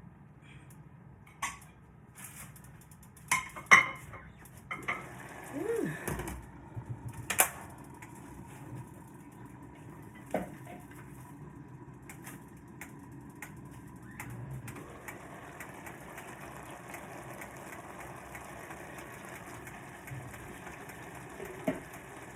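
Pots, lids and metal cooking utensils clattering and clinking a few times in quick succession, then a steady low hiss from the cooking pot, with one more clink near the end.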